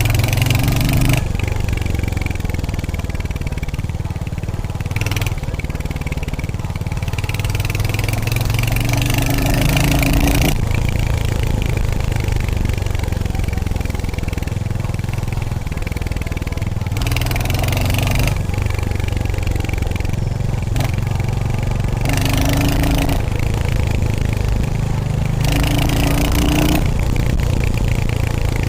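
Royal Enfield Hunter 350's single-cylinder engine and exhaust running steadily on the move, with a few spells of louder hiss lasting about a second each.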